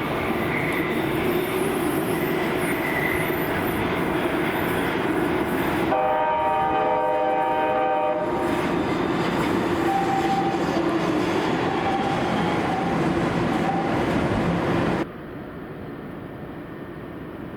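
Steady loud noise, with a horn chord of several steady tones sounding for about two seconds around six seconds in. The level drops suddenly near the end.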